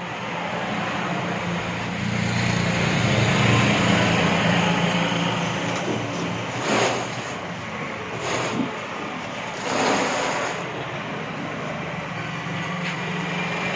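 A motor-driven machine running with a steady low hum and a noisy whir that builds over the first few seconds, with a few short louder rushes about halfway through.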